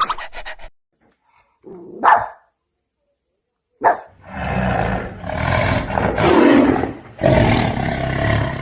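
An animal growling and roaring: a short call about two seconds in, then from about four seconds a series of long, rough, deep growls, one after another.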